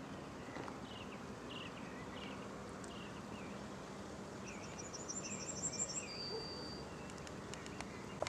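Birds calling over steady outdoor background noise: a short downward chirp repeated every half second or so, and a high, rapid trill a little past the middle.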